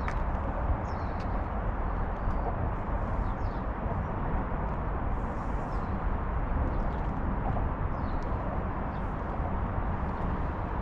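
Outdoor marina ambience: a steady low rumble of background noise, with footsteps on pavement about once a second and faint, short bird chirps.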